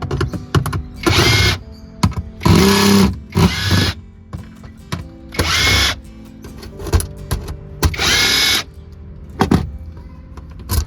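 Cordless drill-driver run in about six short bursts, backing out the screws of a fuel pump access cover. Each burst starts with a quick rising whine.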